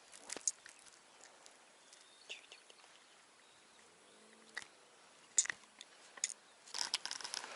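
Quiet outdoor background with a few scattered sharp clicks and light taps, then a crinkling rustle starting near the end.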